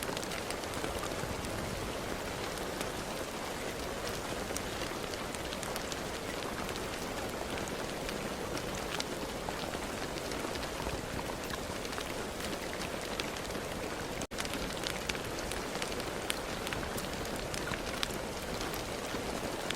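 Steady rain falling on a hard surface, a continuous hiss dotted with the sharp taps of individual drops. The sound cuts out for an instant about two-thirds of the way through, then carries on.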